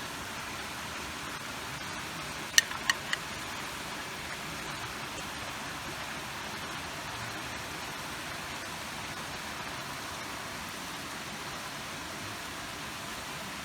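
Steady rushing water noise from the gorge's running water and rain, with three sharp clicks in quick succession about two and a half to three seconds in.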